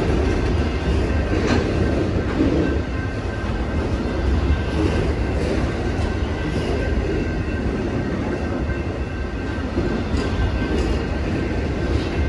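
Amtrak Auto Train bi-level autorack cars rolling past at low speed: a steady low rumble of wheels on rail, with a few sharp clicks and a faint steady high tone over it.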